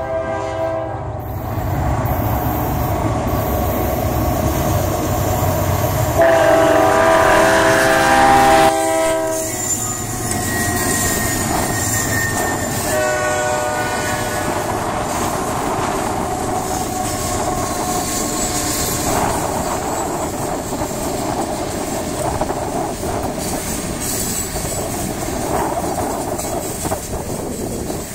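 Diesel freight locomotives sounding their horn: a blast ending about a second in, a long loud blast from about six to nine seconds, and a shorter blast near thirteen seconds. Under and after the horn, the locomotives' engines and the wheels of covered hopper cars rumble and clack steadily as the train rolls by.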